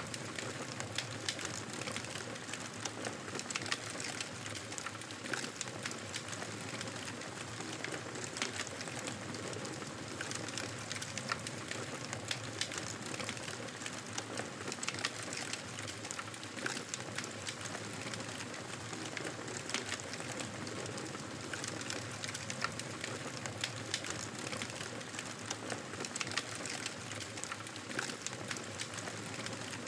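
Campfire burning with a steady hiss and frequent sharp crackles and pops from the wood.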